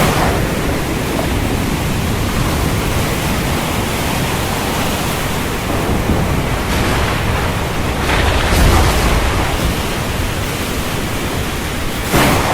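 Stormy wind and sea surf making a continuous rushing noise, with brief louder swells about eight seconds in and again near the end.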